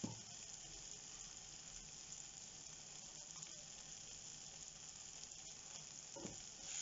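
Onion-tomato masala sizzling faintly and steadily in a non-stick frying pan, with a brief soft bump at the start and another near the end.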